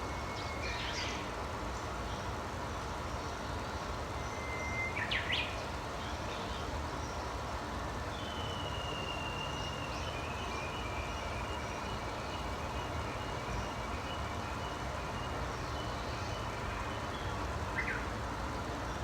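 Songbirds singing outdoors over a steady low background rumble. Twice, a held whistled note breaks into a quick flourish, once near the start and again about five seconds in. A long thin trill follows from about eight seconds, with a short call near the end.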